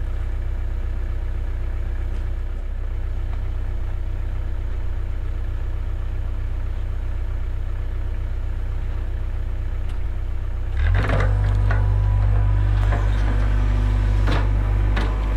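Cat 307 excavator's diesel engine running steadily with a low hum. About eleven seconds in it gets louder as the machine goes to work, with scattered knocks and clatter from the bucket and arm.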